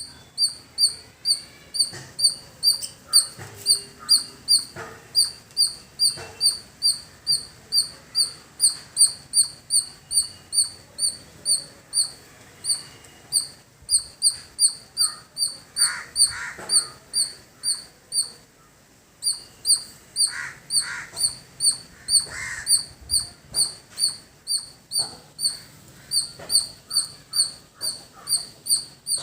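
Squirrel giving a long, rhythmic series of high-pitched chirping calls, about two and a half a second, with one short break about two-thirds of the way through.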